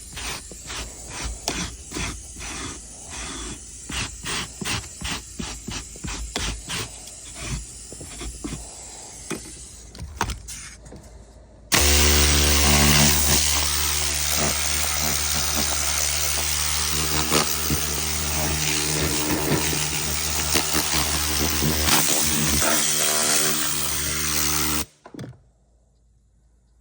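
About two short strokes a second for the first ten seconds, then a motorized detailing tool starts abruptly and runs steadily with a low hum for about thirteen seconds before cutting off.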